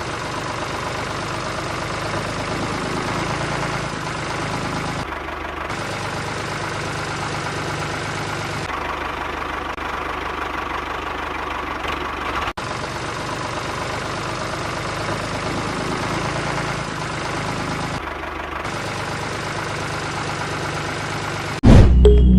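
An engine running steadily, with an even low pulsing throb and no revving. It cuts out for an instant about halfway through.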